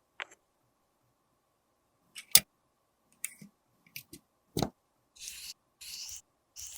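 Small hard makeup tools and cases clicking and knocking, a handful of separate sharp taps with the loudest a little over two seconds in, then three short rasping strokes near the end.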